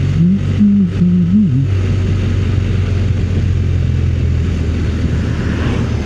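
Motorcycle engine running steadily at riding speed, with wind noise; a brief wavering voice sound, like humming, in the first second and a half.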